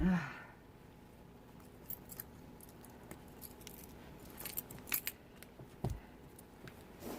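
Faint small clicks, rattles and rustles of winter gloves and clothing being handled and taken off, with a short voice sound at the very start and a soft thump about six seconds in.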